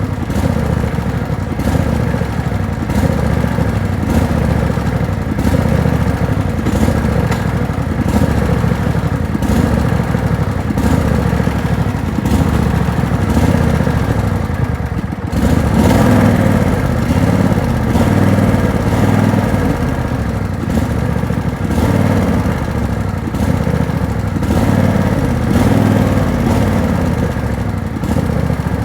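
Tractor engine running steadily, dipping briefly about halfway through and then coming back louder for a few seconds.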